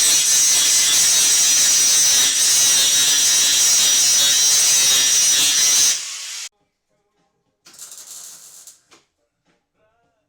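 Loud, rapid mechanical rattling for about six seconds that cuts off suddenly, then a short fainter burst near the end.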